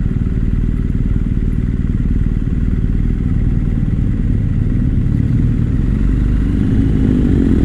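BMW GS motorcycle's boxer-twin engine running at road speed, with rumble and wind noise. The engine note rises a little near the end.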